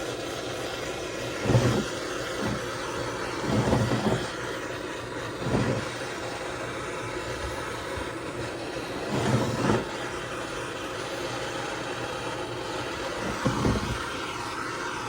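Heat gun running with a steady blowing hiss, warming the saw's crankcase so the new crank bearings can be fitted. Five short louder rumbles break through it at intervals.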